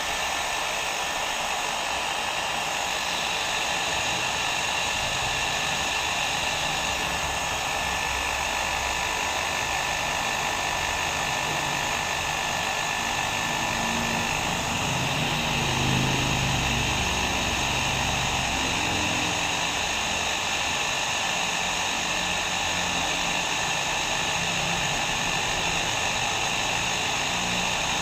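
Electric hair dryer running continuously: a steady blowing rush with a faint steady whine from its motor. A low rumble swells briefly about halfway through.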